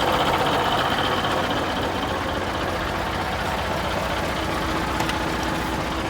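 Scania 142's 14-litre V8 diesel engine idling with a deep, even rumble, settling a little in loudness over the first couple of seconds. A faint steady tone joins about four seconds in.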